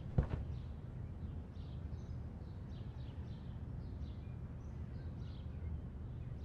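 Birds chirping faintly and repeatedly over a low steady rumble of room noise, with one sharp thump just after the start.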